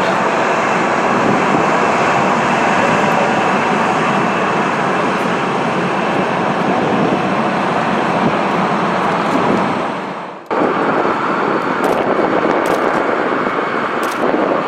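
Loud, steady jet noise from a Boeing 747-400's four turbofan engines during its landing. It drops out abruptly for a moment about ten and a half seconds in, then carries on.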